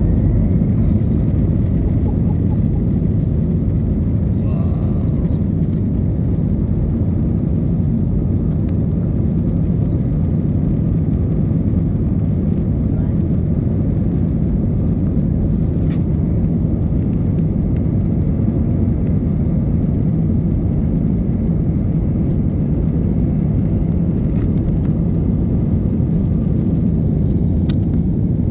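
Steady low roar of an Airbus A320neo's engines and airflow heard inside the passenger cabin, holding an even level throughout.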